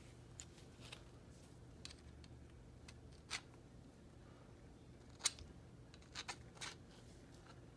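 Scattered light clicks and taps of small parts and hand tools being handled, the sharpest about three and five seconds in and a quick few near six and a half seconds, over a faint low steady hum.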